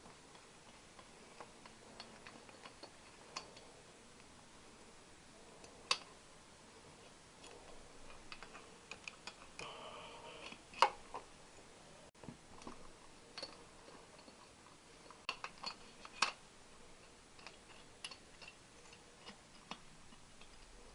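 Faint, scattered clicks and clinks of hand tools and metal parts during removal of a Triumph Bonneville T120R's cylinder head, with a short scrape about ten seconds in and the loudest click just after it.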